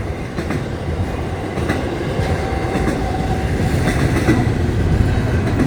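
Florida East Coast Railway train's cars rolling past close by: a steady rumble of wheels on rail, with a few faint clicks.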